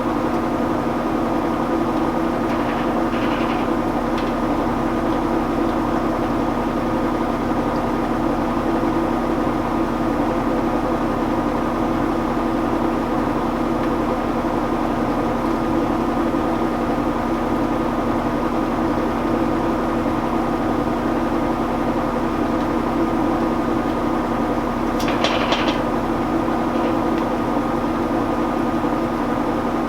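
Admiral (Whirlpool-built) belt-drive top-loading washing machine in its high-speed final spin: a steady hum and whine from the motor and spinning tub. A brief rattle comes about 25 seconds in, with a fainter one about 3 seconds in.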